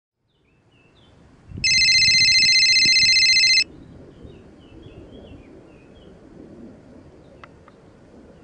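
A handheld electronic device gives a loud, steady electronic tone of several pitches at once, starting about a second and a half in, lasting about two seconds, and cutting off sharply. Small birds chirp faintly in the background, and two faint clicks come near the end.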